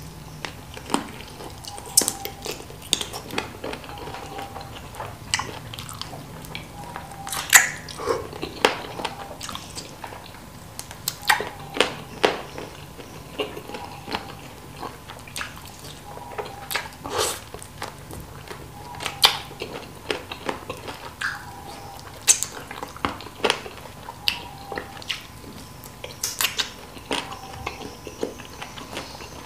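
A person chewing and sucking on chicken feet in chili sauce, with irregular sharp mouth smacks and clicks.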